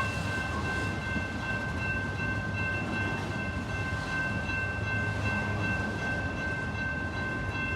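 Freight train rolling past with a steady rumble of wheels on rails.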